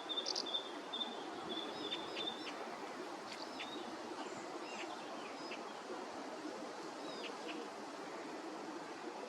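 Small birds chirping: a rapid run of high notes for the first couple of seconds, then scattered short chirps, over a steady background rush.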